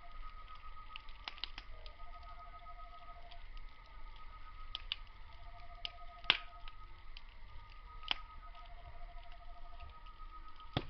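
Wood fire crackling, with scattered sharp pops, the loudest about six and eight seconds in. Underneath are night insects: a steady high chirring and a lower pulsing trill about a second long that comes back every two to three seconds.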